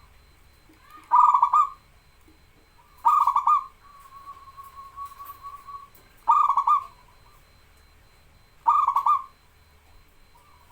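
Zebra dove (perkutut) in full song: four loud, rolling coos about two to three seconds apart, with a soft drawn-out coo between the second and third.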